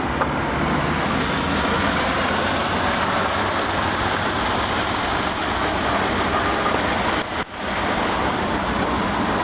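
A motor vehicle's engine running steadily, with a brief drop in sound about seven and a half seconds in.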